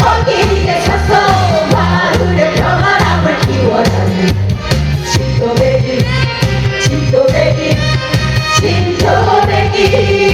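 Live Korean trot-style song performance: several voices singing the melody over an amplified backing with a steady bass beat. The singing eases in the middle and comes back strongly near the end.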